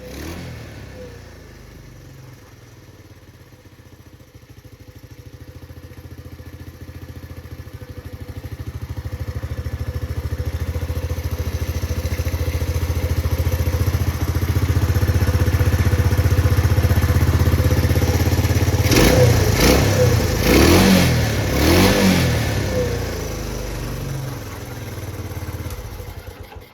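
Honda CT110's single-cylinder four-stroke engine idling steadily, now that a new stator coil has it starting easily. About two-thirds of the way in, the throttle is blipped three times in quick succession, each rev rising and falling back to idle.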